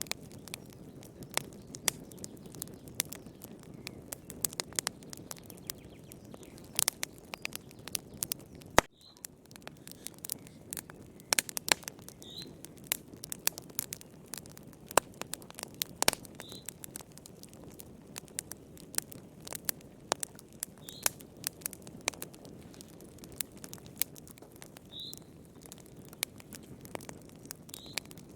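Fireplace fire crackling: many irregular sharp snaps and pops over a low, steady rush of flame. A short, faint high chirp recurs every four seconds or so.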